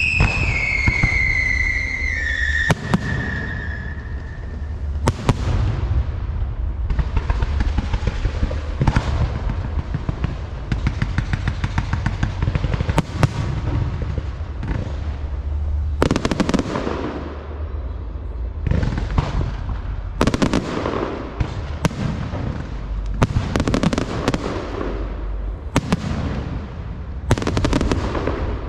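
Fireworks going off: repeated sharp bangs and stretches of crackling, with a whistle falling in pitch and fading out in the first few seconds.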